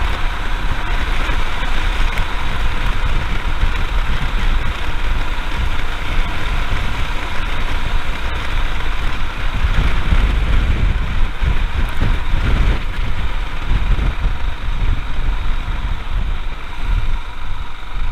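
Royal Enfield Himalayan's single-cylinder engine running steadily while riding along, mixed with a constant rush of wind on the microphone.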